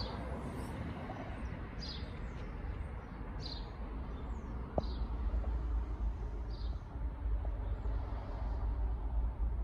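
A bird chirping outdoors: about five short, high calls, each falling in pitch, spaced a second or two apart, over a steady low rumble.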